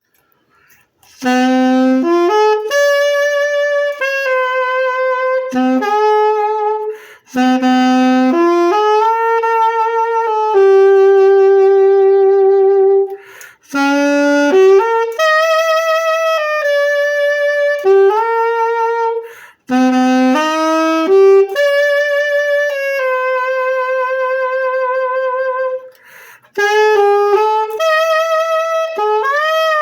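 Holton Revelation alto saxophone playing a slow solo melody. The phrases last about six seconds each, with short breaks between them and vibrato on a held note near the end.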